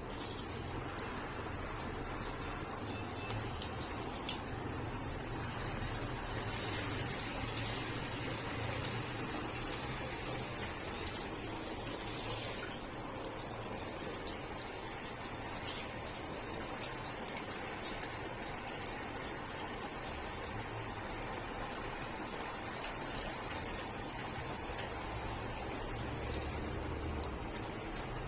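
Water running steadily, with small splashes and drips.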